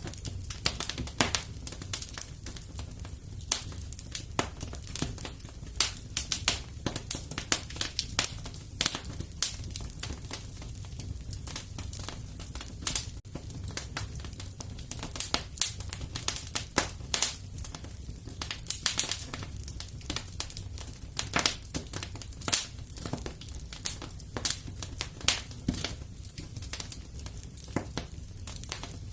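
Wood fire crackling in a fireplace, with irregular sharp pops and snaps over a low, steady rumble.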